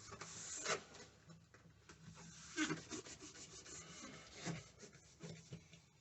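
Irregular rubbing and scraping strokes, a handful of them, with the loudest about a second in and again near the middle.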